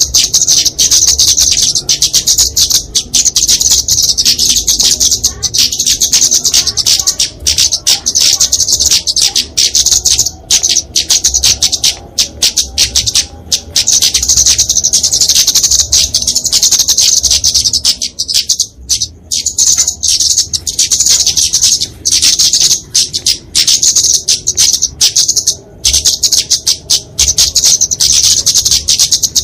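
Kemade flowerpecker (Dicaeum) giving its fighting calls: a loud, unbroken stream of rapid, high, sharp notes with only a few brief pauses.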